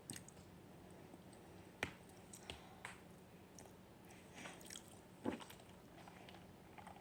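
A person eating instant noodles: faint, wet chewing and mouth smacks with a few sharper clicks. The loudest come about two seconds in and again a little past five seconds.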